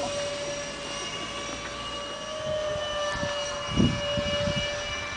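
Twin ducted fans of an R/C SR-71 Blackbird model jet whining steadily in flight, the pitch shifting slightly. A brief low thump about four seconds in.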